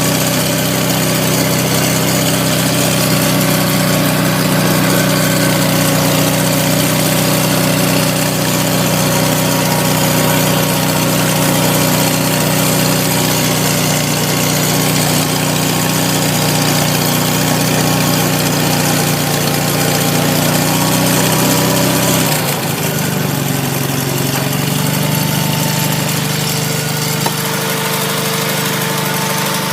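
1977 Sears Suburban 18/6 garden tractor's Onan engine running steadily shortly after a cold start following a month of sitting; about three-quarters of the way through, the engine speed drops and settles into a slower, steady idle.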